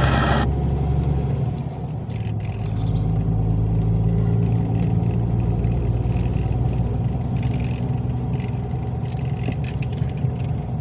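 Truck engine running steadily, heard inside the cab while driving, with light intermittent rattling from the cab's little curtain.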